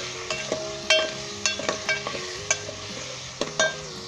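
Potatoes and chicken in spiced tomato masala sizzling as they are fried and stirred, with a spoon knocking sharply against the pot about nine times.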